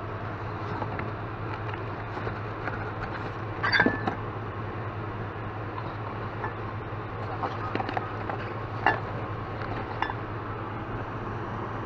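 Steady low hum of a vehicle engine idling, with scattered knocks and clinks over it, the loudest about four seconds in and again about nine seconds in.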